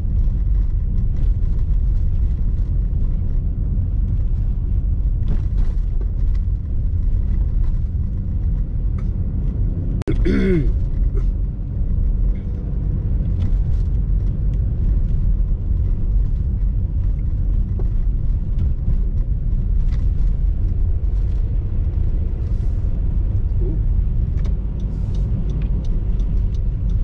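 Steady low rumble of a car driving on snowy streets, heard from inside the cabin: engine and road noise. A brief voice sound about ten seconds in.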